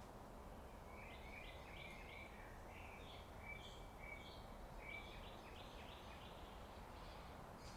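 Small birds chirping, a busy run of short calls that starts about a second in and goes on until near the end. Under them runs a faint, steady low background noise.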